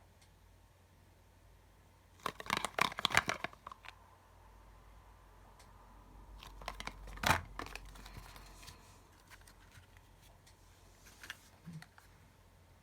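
Perfume packaging and bottle being handled: a quick run of crinkly rustles and clicks about two seconds in, one sharp click about seven seconds in, and a few faint taps near the end.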